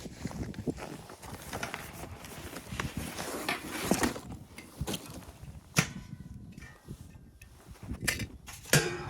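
Irregular clicks, knocks and scraping, with a sharp knock about six seconds in and another cluster of loud knocks near the end.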